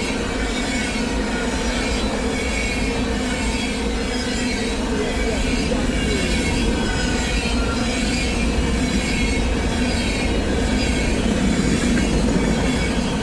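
Train passing close by, its cars rolling over the rails in a steady rumble, with thin high wavering squeals from the wheels.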